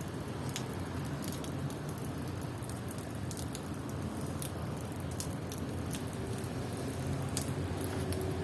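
Steady rain falling, with scattered drops ticking sharply over a constant hiss.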